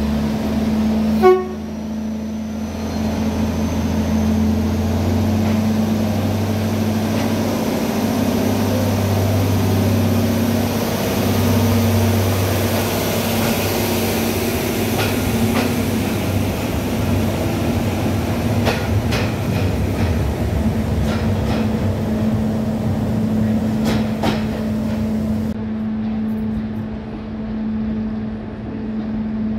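TFC DH2 diesel train pulling out of the station, its engine running with a steady hum and a few sharp clicks from the wheels over the track. About 25 seconds in the sound cuts abruptly to a duller train noise.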